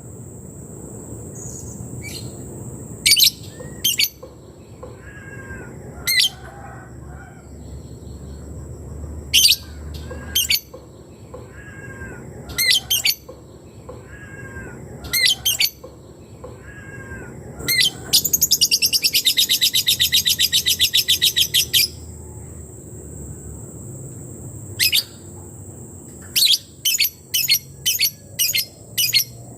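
Lebet songbird calling: sharp high chip notes spaced through, a fast typing-like ticking rattle lasting about four seconds a little past the middle, and a quick run of chips near the end. It is a recorded challenge call used to lure rival lebet birds into answering.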